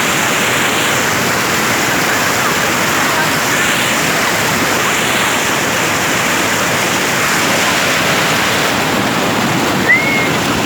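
Pandeiro River waterfall, water falling and rushing in a steady, even noise. A short high chirp sounds once near the end.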